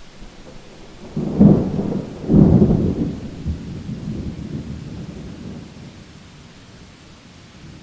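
Thunderclap over steady rain: two loud low cracks about a second apart, then a rolling rumble that dies away over several seconds.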